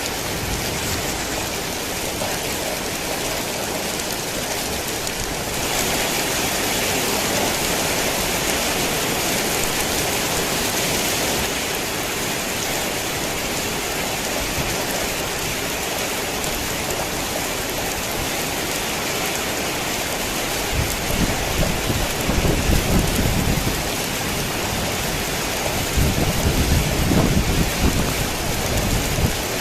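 Heavy rain pouring steadily, heavier for several seconds about a fifth of the way in. Low rolls of thunder rumble twice in the last third.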